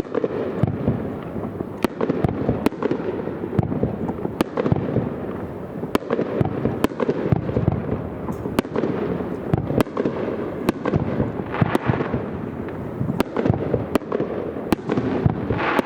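Aerial fireworks display: a dense, continuous barrage of shells bursting with sharp booms and cracks at irregular spacing over a steady rumble.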